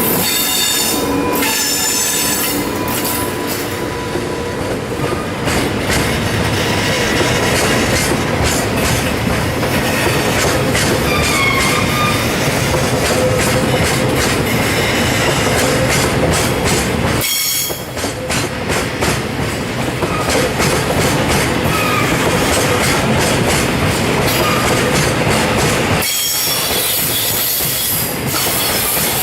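Freight train of tank wagons rolling past close by, its wheels clicking over the rail joints, with faint squeal from the wheels.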